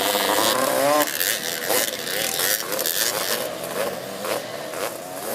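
Several racing three-wheeler ATC engines revving on the track, their pitch rising and falling repeatedly as the riders work the throttles, with one sharp climb about a second in.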